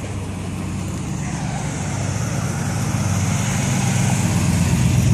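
A classic car's engine running with a low, steady rumble that grows steadily louder, as if the car is drawing closer.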